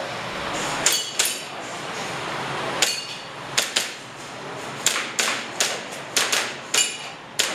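Airsoft pistol firing a string of about a dozen sharp cracks at an uneven pace, many in quick pairs, some with a short metallic ring.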